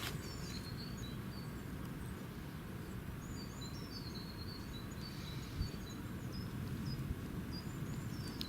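Small birds chirping, many short high calls one after another, over a steady low rumble of outdoor background noise.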